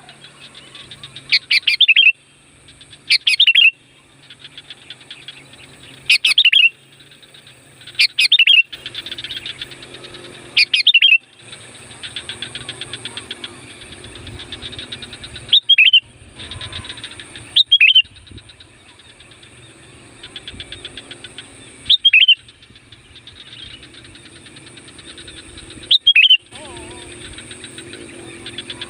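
Sooty-headed bulbul (kutilang) calling loudly: about nine short, sharp calls repeated every two to four seconds, over a fainter, rapid bird chatter. This is a call sound of the kind used to lure wild bulbuls.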